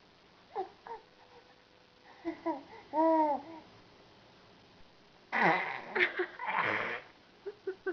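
Six-month-old baby making odd vocal sounds: a short sound, then a high, wavering squeal about two seconds in, then loud, harsh, raspy throat noises from about five seconds in, like a man hawking up phlegm.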